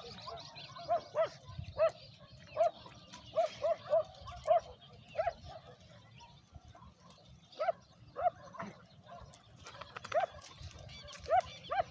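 A dog barking repeatedly in short, sharp barks, irregularly spaced, with a pause of about two seconds midway.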